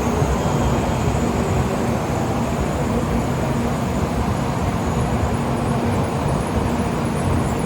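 Steady rumble of a Shinkansen train at a station platform, with a faint high whine over it.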